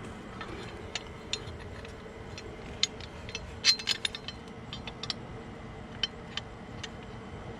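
Metal bolts and hand tools being handled, giving irregular light clinks and clicks with a louder cluster about halfway through, over a steady background hum.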